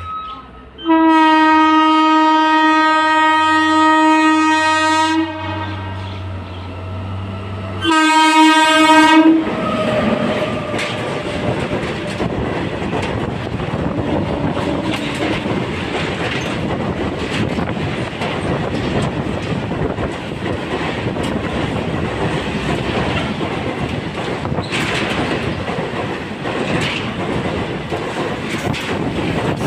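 Freight train locomotive sounding its horn, one long blast and then a short one, followed by the goods wagons rolling steadily past with a continuous rumble and clickety-clack of the wheels on the rail joints.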